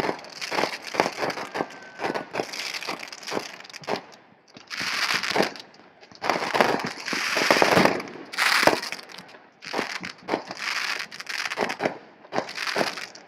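Fireworks popping and crackling: a rapid run of sharp pops, with longer hissing crackle bursts in the middle.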